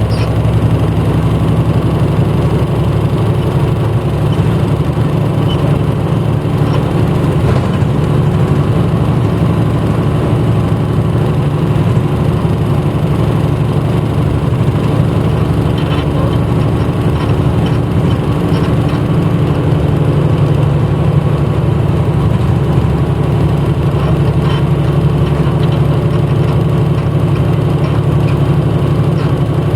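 Engine of a 1994 Hino Blue Ribbon U-HT2MPAA city bus running steadily, heard from inside the passenger cabin as an even, deep drone.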